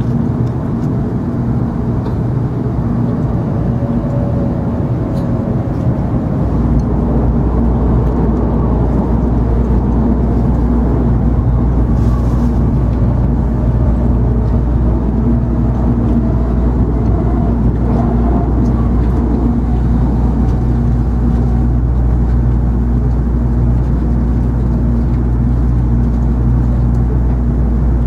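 Interior running noise of an N700 series Shinkansen heard inside the passenger cabin: a steady low rumble with a steady hum. The low rumble steps up and stays louder from about six seconds in.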